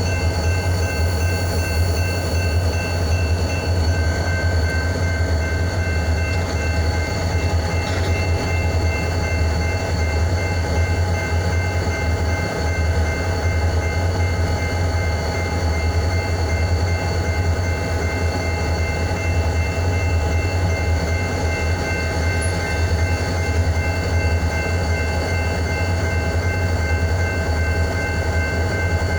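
Diesel locomotives of the EMD GP type running with a steady, unchanging low engine drone and some steady high-pitched tones above it.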